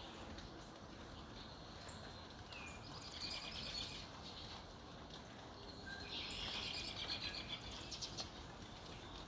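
Songbirds singing in the early morning: two spells of rapid trilling song, one about three seconds in and a longer one about six seconds in, with a few short chirps over steady background noise.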